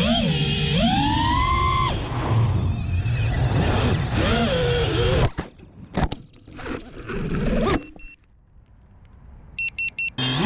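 FPV racing-quadcopter motors whining, the pitch rising and falling with the throttle. About five seconds in the sound cuts out into a few short sputters, then goes nearly quiet, and near the end there is a quick run of about four short, high electronic beeps.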